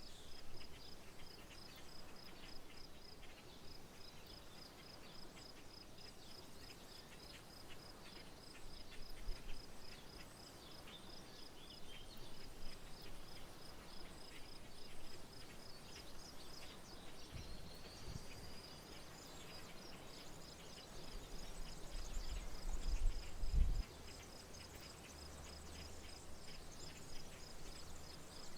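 An insect, likely a cricket, chirps in a steady, rapid high pulsing trill, with scattered short bird chirps over a rural background. A low rumble comes a little past the middle and is loudest shortly before it stops abruptly.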